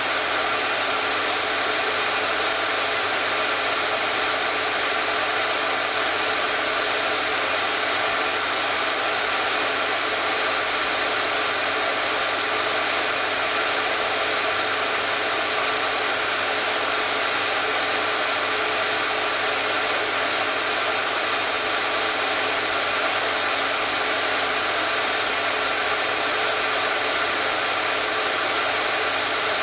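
Hair dryer running steadily at a constant speed: an even, unbroken blowing noise with a steady motor hum beneath it.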